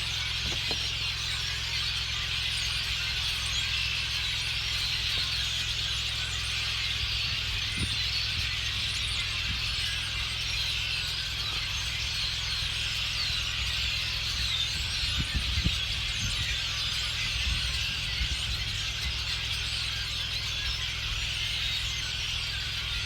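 A large flock of birds chattering and singing together: a dense, unbroken chorus of many overlapping high chirps and squeaks, over a steady low rumble.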